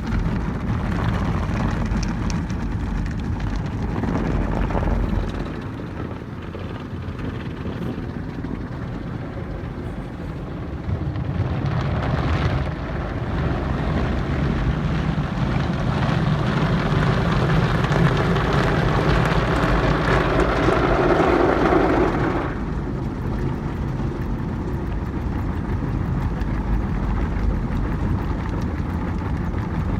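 Belanger FreeStyler automatic car wash running, heard from inside the car: a loud, steady rush of spraying water and machinery with a deep rumble. It grows louder in the middle and eases back about 22 seconds in.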